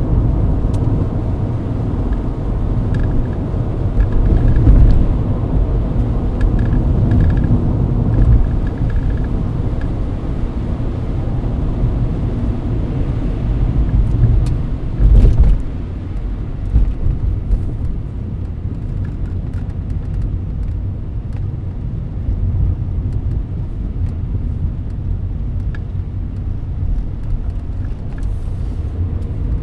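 Mercedes-Benz W124 cruising on a wet highway, heard from inside the cabin: a steady deep rumble of road, tyre and engine noise. Two heavier thumps stand out, one about five seconds in and a louder one about fifteen seconds in.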